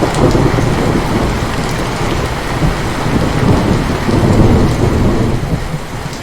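Heavy rain falling during a thunderstorm, with a long rolling rumble of thunder throughout.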